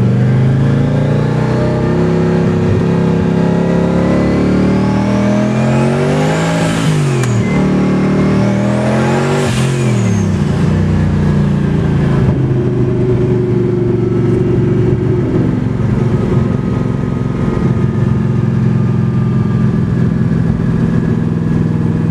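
Twin-turbo V8 of a 1967 Chevelle SS running loudly, with two sharp rises and falls in revs about a third of the way and about halfway through, then settling to a steady running note.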